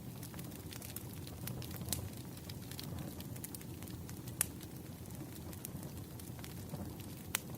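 Wood fire burning: a steady low rumble of flames with irregular sharp crackles and pops from the burning logs, a few louder pops standing out.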